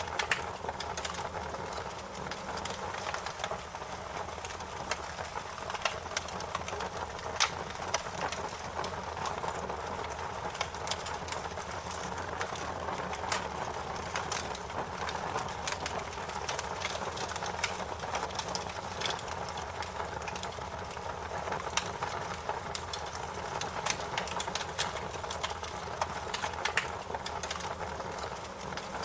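Fire crackling: irregular sharp pops and snaps, some louder than others, over a steady hiss.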